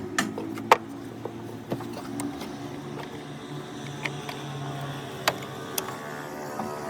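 A steady mechanical hum with scattered sharp clicks and taps, the loudest under a second in.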